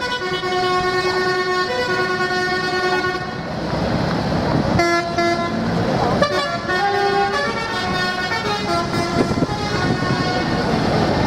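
Tractor horns tooting in long held notes at several different pitches, over the running engines of passing tractors.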